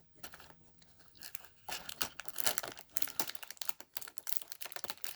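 Plastic packaging crinkling and tearing: a small bag of Lego pieces being torn open and handled, a fast crackle that starts after a quiet second and a half.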